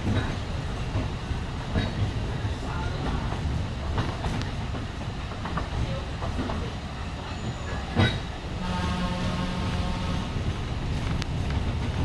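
Alishan Forest Railway train running, its wheels rumbling and clacking over the rail joints. There is a sharp knock about eight seconds in, then the train's horn sounds once, a steady tone lasting about a second and a half.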